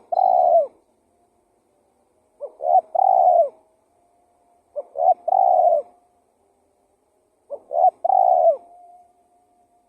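Spotted dove (tekukur) cooing: a repeated low phrase of two short notes and a longer drawn-out note, four times, about every two and a half seconds.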